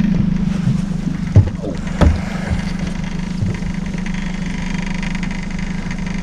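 A boat's motor running steadily, with two short knocks about a second and a half and two seconds in.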